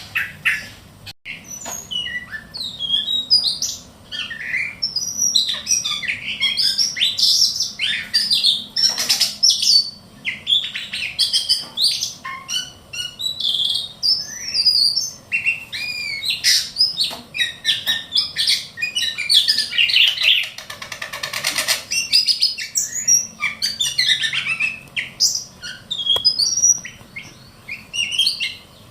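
Ciung batu kecil (small whistling thrush) singing a fast, varied song of chirps, whistles and sharp notes with hardly a pause, broken by a buzzy rattling trill about twenty seconds in.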